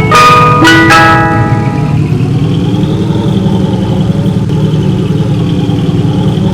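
An ice cream truck's chiming jingle plays its last few notes and stops about a second in. The truck's engine is left idling with a steady low hum.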